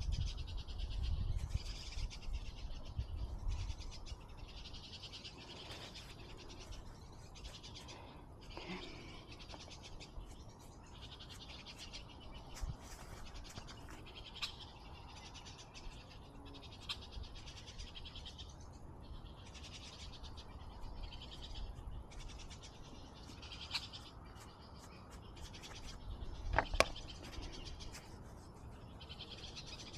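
Outdoor ambience with a high-pitched, buzzy animal call repeating over and over, each call lasting a second or two with short gaps between. There is a low rumble in the first few seconds and a single sharp knock near the end.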